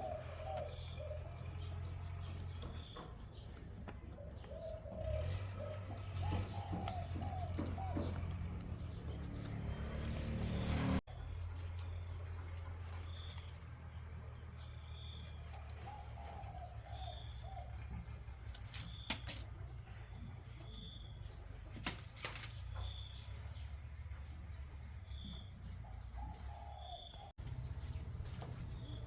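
Birds calling: short warbling calls come in small groups, with high chirps repeating every second or two, over a steady low hum.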